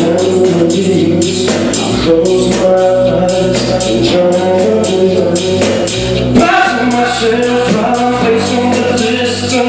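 Live band playing a song with a singer, over a quick, steady drum beat and held bass and guitar notes.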